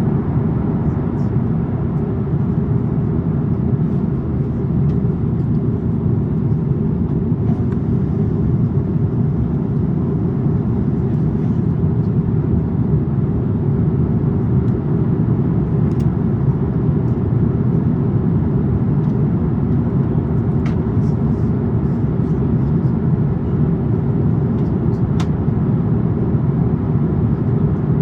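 Steady low rumble inside the cabin of an Airbus A350-900 in flight: the noise of its two Rolls-Royce Trent XWB engines and the airflow past the fuselage, with a couple of faint clicks.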